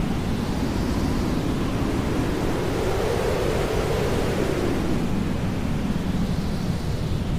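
Hair dryer blowing steadily: an even rushing noise whose tone drifts slowly up and down.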